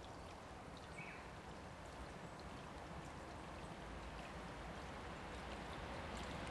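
Steady hiss of falling rain, with the sound of an approaching 485-series electric express train rising beneath it and growing steadily louder.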